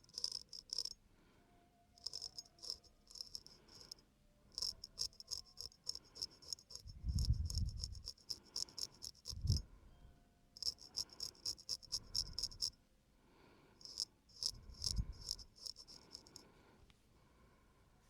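Razor scraping across facial skin in bursts of quick, short strokes, with brief pauses between bursts. A few dull low thumps come in the middle.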